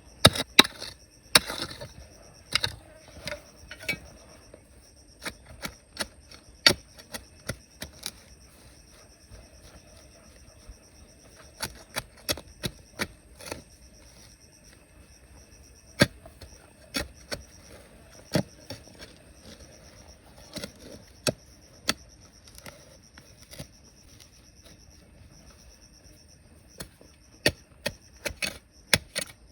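Scattered sharp knocks and taps of hand tools striking rock and gravel, some loud, at an irregular pace. A faint, steady high buzz runs underneath.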